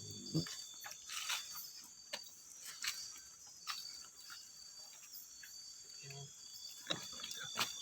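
Steady high-pitched chirring of crickets and other insects, with scattered faint clicks and rustles.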